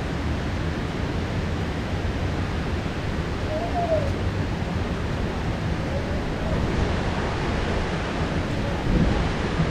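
Heavy rain downpour falling steadily, with a brief low thump about nine seconds in.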